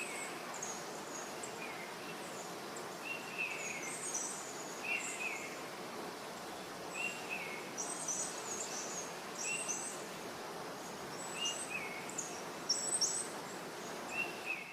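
Forest birds calling over a steady background hiss: a short two-part note repeats every second or two, with thin high chirps in between that grow busier in the second half.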